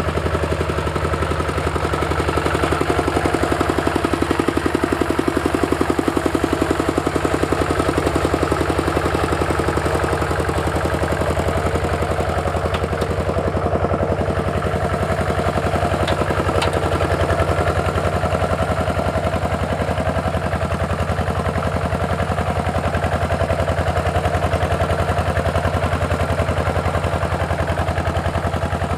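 Walking tractor's single-cylinder engine running steadily with a rapid, even chugging.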